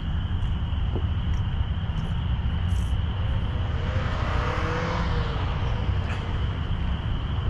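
A car passes by, rising to a peak about four to five seconds in and fading away, over a steady low traffic rumble and a constant high-pitched insect drone.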